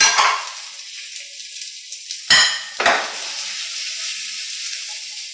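Onion, garlic and chilli sizzling steadily in hot coconut oil in a frying pan, with a sudden flare of sizzling right at the start. A little over two seconds in, a loud metal clang of a utensil on the pan rings out, followed half a second later by a second knock.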